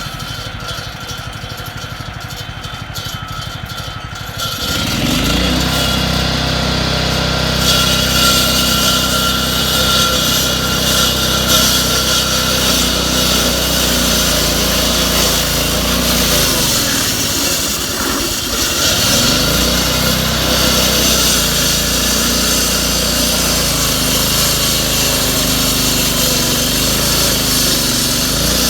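Engine-driven power tool at road-repair work: a lower engine sound for the first few seconds, then about five seconds in it gets much louder and harsher and runs steadily, easing briefly near the middle before picking up again.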